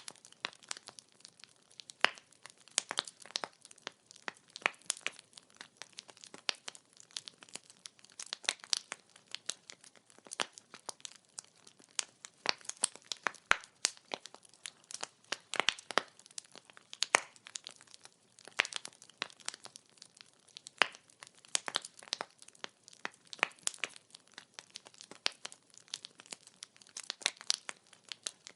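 Wood fire crackling: irregular sharp pops and snaps of burning firewood, several a second, over a faint low hiss.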